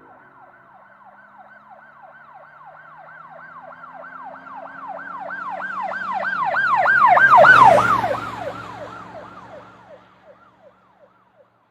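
An emergency vehicle's siren in fast yelp mode, about three rising-and-falling wails a second, growing louder as it approaches, loudest with a rush of vehicle noise about seven seconds in, then dropping slightly in pitch and fading as it passes and moves away.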